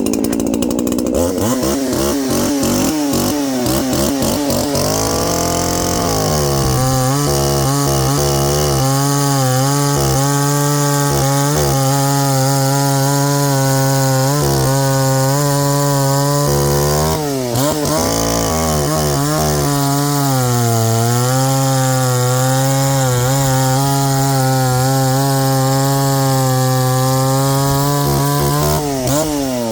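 Craftsman 3.7 two-stroke chainsaw revving unevenly, then held at full throttle as the chain cuts through ash, its pitch sagging slightly under load. It eases off briefly about two-thirds of the way through, cuts again, and drops in pitch near the end.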